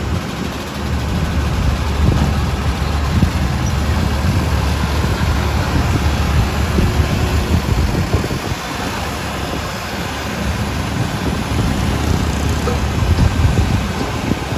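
Diesel engine of heavy earthmoving machinery running loud and close, a low, uneven drone that swells about a second in and again near the end.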